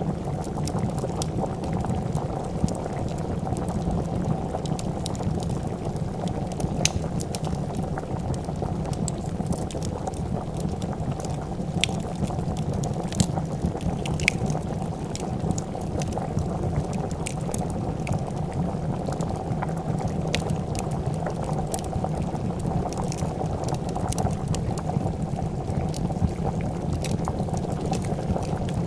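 A pot of soup at a steady rolling boil, bubbling continuously, with the sharp scattered pops and crackles of a wood fire throughout.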